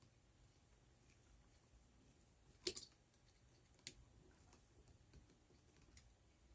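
Near silence broken by two small clicks about a second apart, the first louder, from a screwdriver and the terminal screw on an old light switch being tightened down on a wire.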